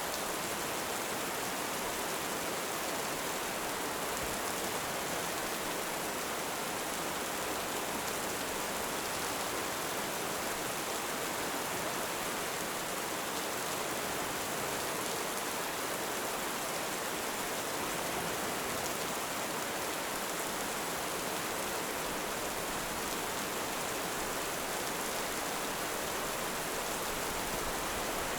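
Steady heavy rain: an even, unbroken hiss with no thunder.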